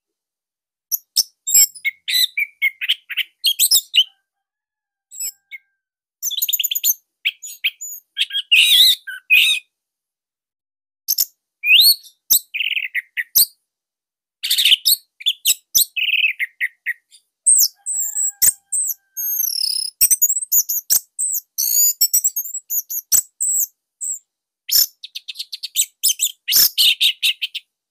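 Orange-headed thrush (anis merah) singing a loud, tight song of rapid, varied high chirps and whistled notes. The song comes in quick bursts with brief pauses between phrases.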